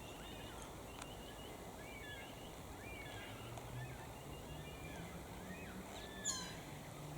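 Wild birds calling in the bush: many short whistled chirps and rising-and-falling notes, with one louder call sweeping downward about six seconds in.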